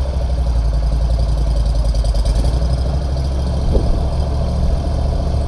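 Heavy machine's engine running steadily with a deep, even hum.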